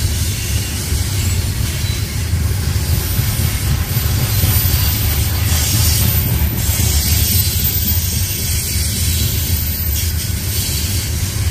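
A train rolling past close by, a steady heavy rumble of wheels on rail with a hiss over it.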